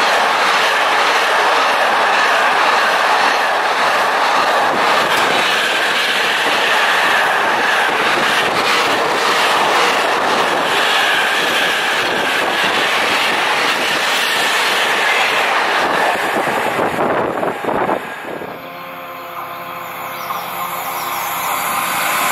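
Freightliner container train's wagons rolling past at speed, a loud, steady rush of wheels on rail. About eighteen seconds in, this cuts to a quieter electric hum with steady tones that grows louder as a Class 390 Pendolino electric train approaches.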